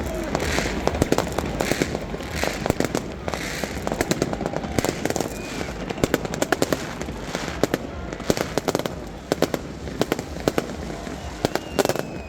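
Fireworks and firecrackers going off all around: a dense, irregular string of sharp bangs and crackling reports, several a second at times, over a low rumble of more distant blasts.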